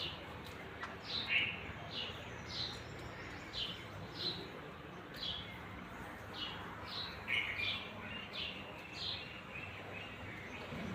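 Small wild birds chirping: a series of short, high chirps that slide downward in pitch, about one a second, with a few lower chirps among them.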